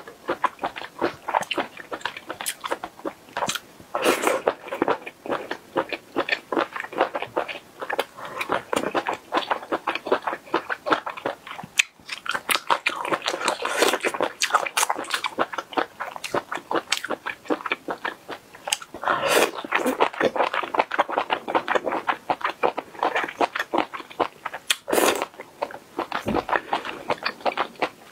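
A person chewing stir-fried baby octopus: a dense run of wet chewing clicks and smacks, with a brief gap about twelve seconds in.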